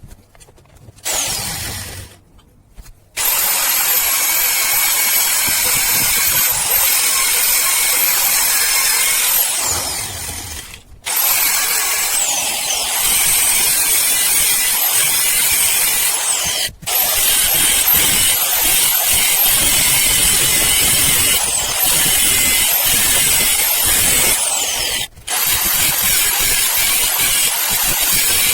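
Power tool cutting into the steel shell of a hermetic refrigerator compressor: loud grinding with a high whine that dips and recovers as it bites. A short burst and a pause come first, then it runs with brief stops three times.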